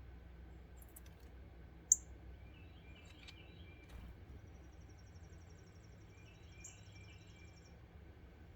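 Wild birds calling: scattered short high chirps, one sharp loud chirp about two seconds in, a couple of brief clusters of lower song notes, and a high buzzy trill lasting about three seconds in the middle, over a low steady outdoor background.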